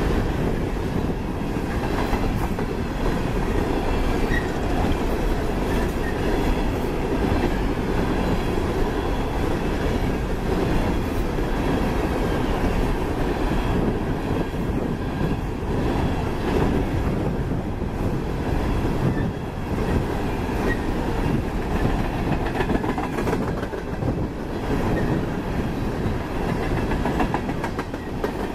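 Empty open-top coal cars of a freight train rolling past: a steady rumble of steel wheels on the rails, with occasional clicks as the wheels pass over rail joints.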